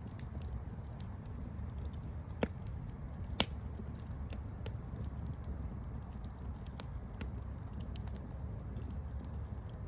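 Campfire burning with a steady low rumble and scattered crackles, with two louder sharp pops about two and a half and three and a half seconds in.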